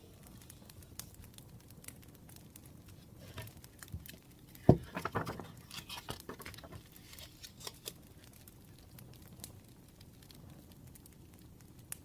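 Faint scattered crackles of a wood fire, with a sharp knock about five seconds in followed by a couple of seconds of rustling and handling, like paper or objects moved on a desk.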